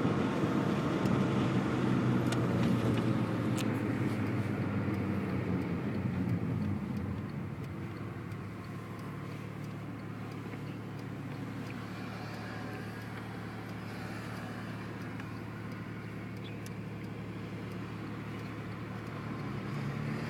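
Porsche 911 (997) Turbo's twin-turbocharged flat-six engine pulling with the car under way, louder at first; about seven seconds in it eases off and settles into a quieter, steady cruise.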